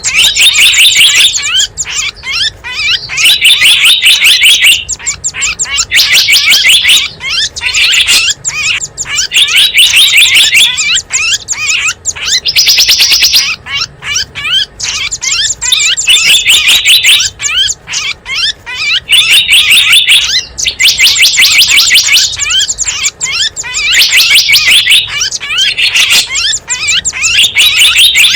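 Small birds chirping and twittering in a bird-lure recording: rapid high-pitched chirps come in dense, loud bursts of a second or two, repeated every couple of seconds.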